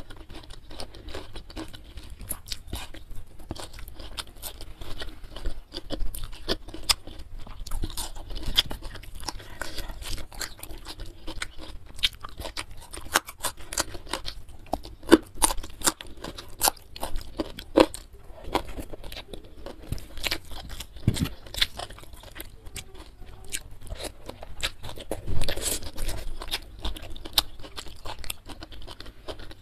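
Close-miked eating: a steady run of crisp crunches and wet chewing, from bites of raw cucumber and a meal of fried carp with sambal and rice.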